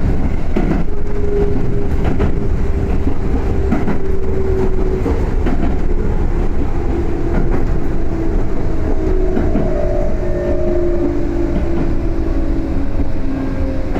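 Running sound inside an ex-Tokyu 7700 series electric car on the Yoro Railway: a steady low rumble with scattered rail-joint clicks. A motor whine slowly falls in pitch as the train slows.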